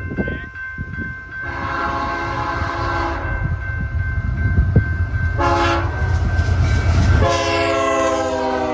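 Canadian Pacific freight locomotive's multi-note air horn sounding for a grade crossing: a long blast, a short one, then a long one whose pitch sags slightly, over the low rumble of the approaching train, which grows louder.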